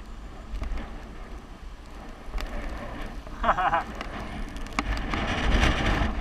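Wind rushing over the microphone of a bicycle rider coasting downhill, with light rattling clicks, a brief wavering squeal about three and a half seconds in, and a louder gust of rushing noise near the end.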